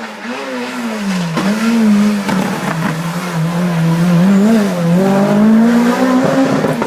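Hillclimb race car engine revving hard, its pitch dropping and climbing again with gear changes and throttle, getting louder as the car approaches.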